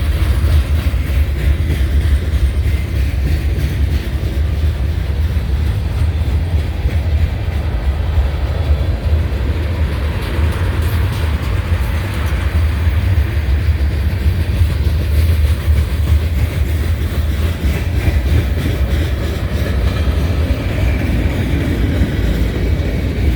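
A long freight train's cars rolling steadily past close by: continuous rumble and clatter of wheels on the rails.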